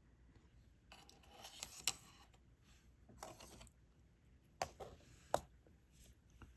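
Faint handling of diamond-painting supplies: two short scratchy rustles and several sharp small clicks, the loudest about two seconds in and a couple just past the middle.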